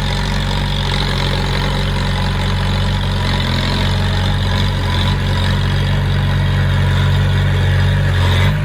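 Diesel engine of heavy earthmoving equipment running steadily at a low, even speed, with no revving or change in load.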